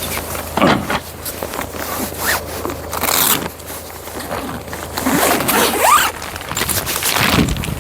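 A zipper being pulled in several long strokes, each with a rising rasp.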